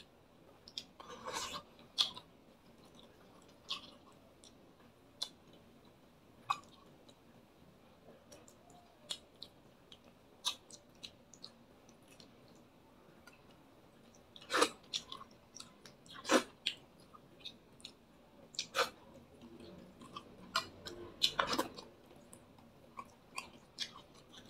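Close-up open-mouth chewing of fried fish eaten by hand: irregular wet smacks and mouth clicks, louder in a few clusters.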